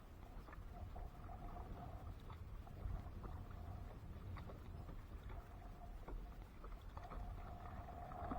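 Water lapping and splashing against a kayak's hull over a low rumble, with scattered light knocks. A faint steady hum comes and goes and is strongest near the end.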